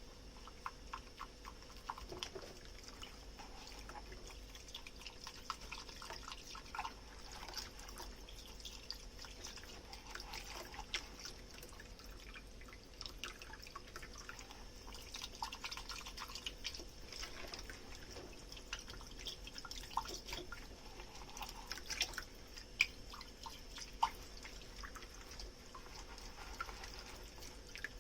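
Hand dish washing at a kitchen sink: wet, foamy squishing and dripping, with many small clicks and taps of dishes being handled. There are a few sharper clinks near the end.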